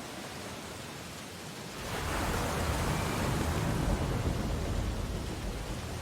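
Ocean waves on a beach: a steady wash of surf, with one wave swelling up about two seconds in, breaking, and easing off again near the end.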